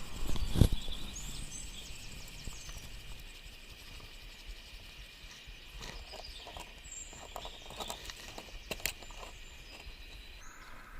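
Outdoor riverside ambience: a steady high-pitched drone that stops suddenly near the end, a few short high chirps, a single thump about half a second in and a few scattered clicks later on.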